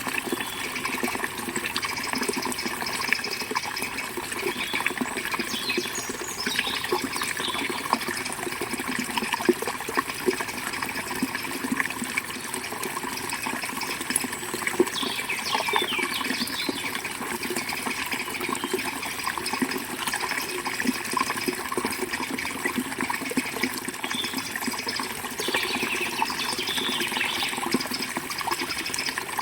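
Forest river water flowing and splashing steadily over stones, with birds chirping briefly a few times in the background.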